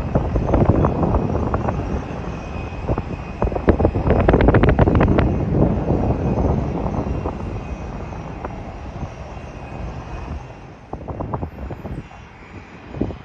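Jet airliner engines rumbling past, loudest about four to five seconds in and then fading away, with wind buffeting the microphone.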